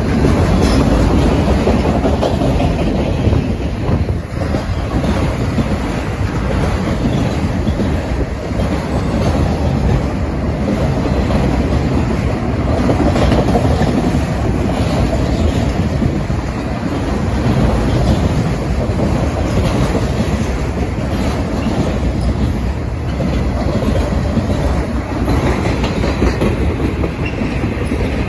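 Freight train of autorack cars rolling past close by at about 30 mph: a steady rumble with the clatter of steel wheels on the rails.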